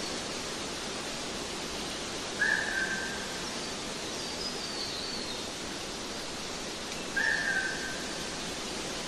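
Nature-sound track: a bird whistles a clear, slightly falling note twice, about five seconds apart, over a steady rushing hiss. Fainter high, falling chirps come between the two notes.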